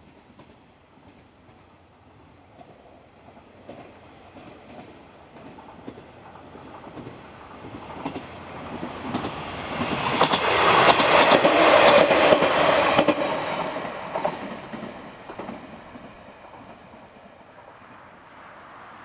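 A diesel railcar passes by, with the rattle of wheels on rail joints. It grows louder over several seconds, is loudest for a few seconds in the middle, then fades away.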